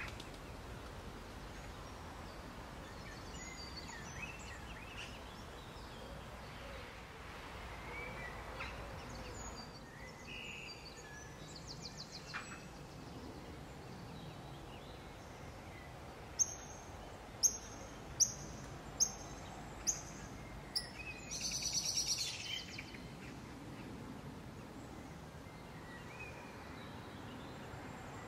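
Wild birds calling over a steady outdoor background hiss: scattered faint calls, then about sixteen seconds in a run of six sharp, high notes roughly two-thirds of a second apart, followed by a brief busier burst of calls.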